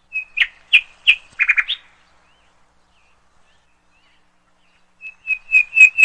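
A small bird giving a quick run of about five sharp chirps, then a pause of a few seconds, then another run of chirps starting near the end.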